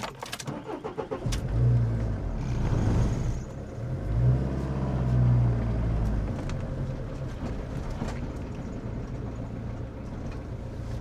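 Motorhome engine pulling away at low speed while parking, revving up and easing off twice in the first six seconds, then running steadily and more quietly.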